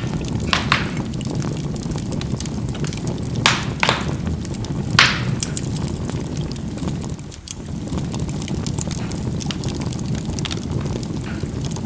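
Charcoal burning in a fireplace: a steady low rushing from the fire with constant small crackles and a few sharper pops of the coals bursting, the loudest about five seconds in.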